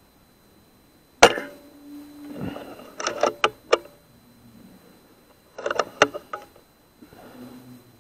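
Weihrauch HW100 pre-charged air rifle firing once: a single sharp crack about a second in. Two short clusters of sharp clicks follow, around three and six seconds in.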